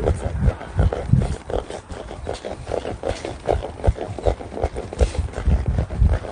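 Ridden horse moving: an uneven run of low hoof thuds with the horse's breathing over them.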